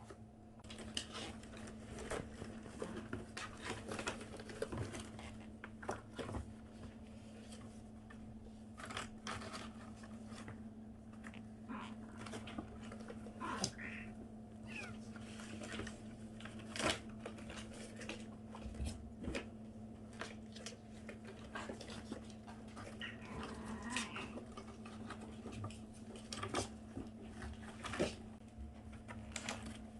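A five-week-old kitten making small, odd noises: a few brief mews and squeaks among many scattered soft clicks and taps.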